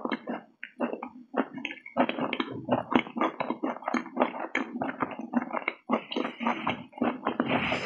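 Close-miked chewing and lip smacking as a person eats with the mouth full, in quick irregular wet smacks several times a second.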